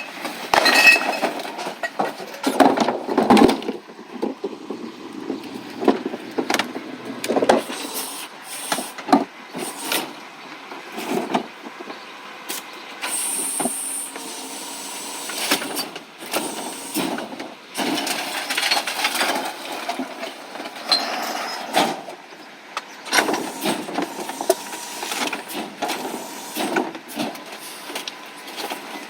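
Recycling truck at work on a collection route: a busy run of knocks, bangs and clatter over its running, with a short hiss about thirteen seconds in.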